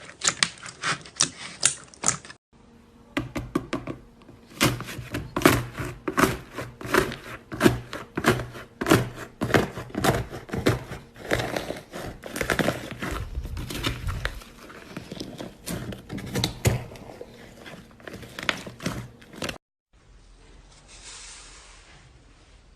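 Slime being squeezed and poked by hand, giving rapid, irregular clicks and pops. The sound breaks off abruptly twice, and near the end gives way to a softer hiss.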